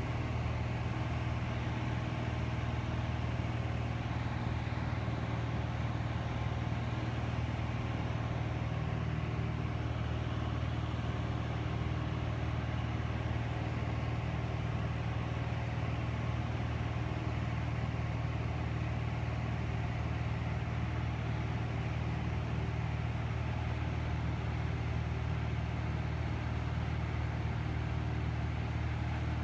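Lake LA-4-180 amphibian's engine and propeller droning steadily at an even level, with no change in pitch or loudness.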